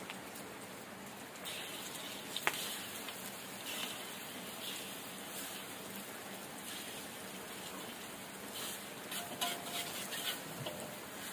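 Steady patter of rain, with a sharp tap about two and a half seconds in and a few small ticks near the end.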